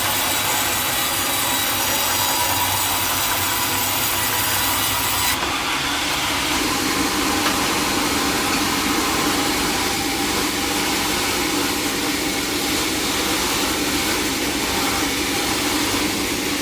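Sawmill saw cutting teak wood: a steady, continuous sawing noise. About five seconds in the sound changes, with the hiss thinning out and a lower drone coming up.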